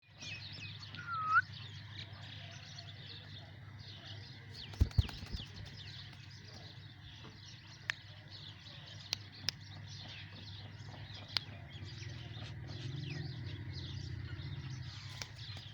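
Many small birds chirping and twittering continuously over a steady low hum, with one louder call about a second in and a few sharp clicks scattered through.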